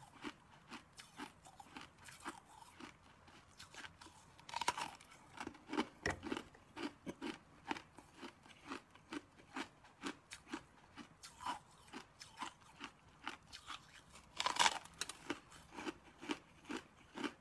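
Crunching and chewing of a hard, crystal-covered stick of food, bitten off and chewed with a steady run of crisp crunches about two a second. Louder bites come about four and a half seconds in and again about three seconds before the end.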